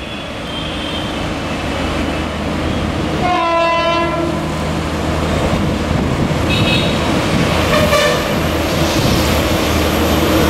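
Indian Railways WAP-7 electric locomotive hauling a double-decker express, approaching and growing steadily louder over a low rumble and hum. Its horn sounds once for under a second about three and a half seconds in, with shorter, fainter toots around six and a half and eight seconds in.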